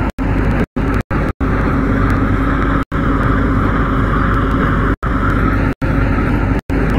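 MTR C-Train electric multiple unit running between stations, with a steady hum of traction motors and wheels on rail. The sound cuts out completely for short moments several times.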